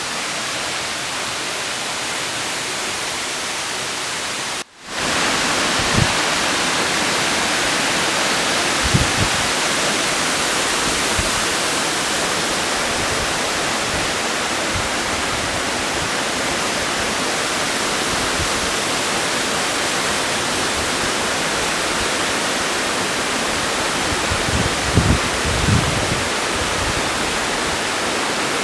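Waterfall, water falling and rushing in a steady, loud hiss. It cuts out for an instant about five seconds in and comes back louder, with a few short low thumps on the microphone.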